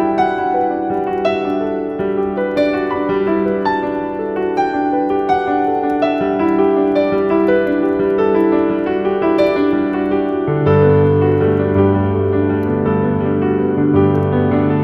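Background piano music, a run of struck notes at a gentle pace; lower bass notes join in about two-thirds of the way through.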